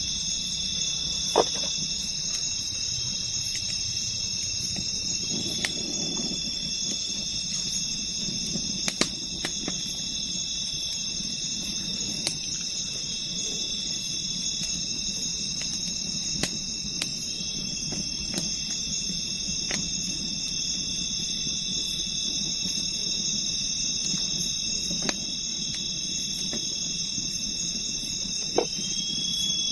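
Steady night chorus of insects, crickets and the like, shrilling without a break, with a few sharp irregular taps of a knife on a cutting board as onions are sliced.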